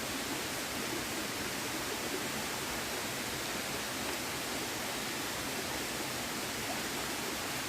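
Steady rushing of flowing river water, an even unbroken wash of noise.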